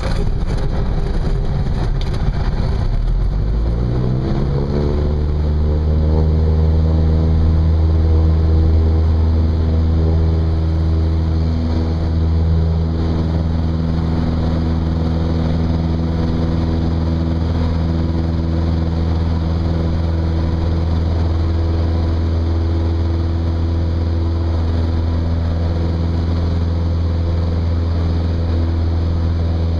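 Cessna 172's piston engine and propeller rising in pitch about three to five seconds in as the throttle is opened, then running steadily at high power, as for the takeoff run of a touch-and-go.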